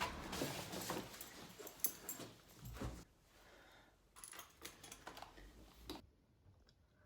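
Soft, irregular clicking and rustling, in two spells with a short pause between, cutting off suddenly about six seconds in.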